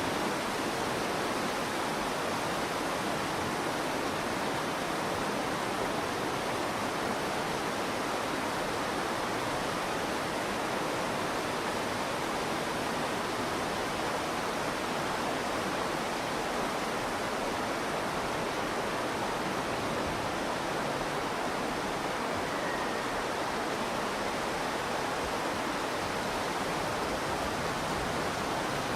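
Virgin River water rushing steadily, an even unbroken hiss.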